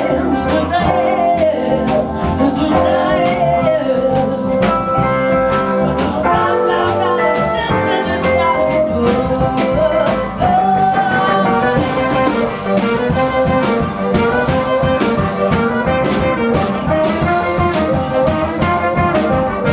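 Live swing band playing a jazzy number with a steady drum beat.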